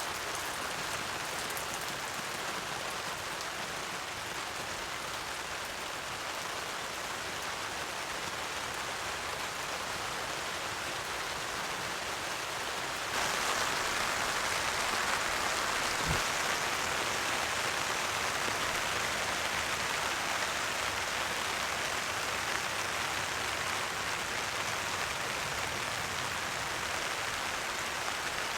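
Steady heavy rain pattering on a heavy-duty tarp overhead, stepping up noticeably louder about halfway through. A single brief low thud a few seconds after that.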